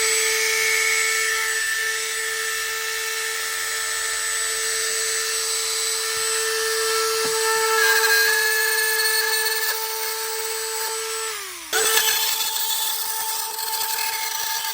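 Handheld rotary tool running at high speed and cutting, a steady high whine. About eleven and a half seconds in it winds down briefly, then starts up again at once.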